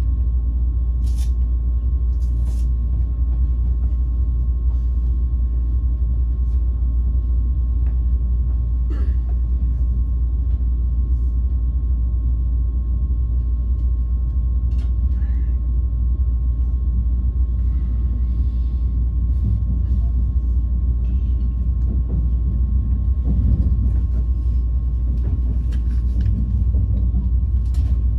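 Steady low rumble of a passenger train running, heard from inside the carriage, with a thin steady whine over it.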